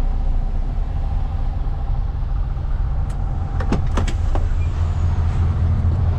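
MAN truck's diesel engine running steadily, heard from inside the cab, with a few light clicks a little past the middle.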